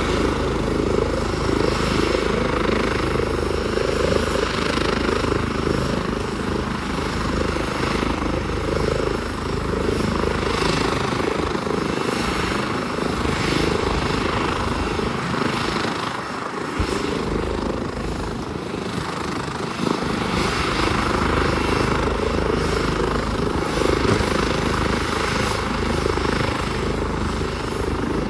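Helicopter running steadily, with the continuous noise of its engine and rotor.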